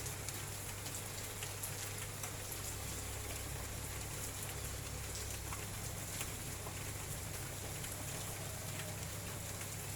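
Light drizzle falling: a steady hiss of rain with scattered drops ticking. A low, steady hum runs underneath.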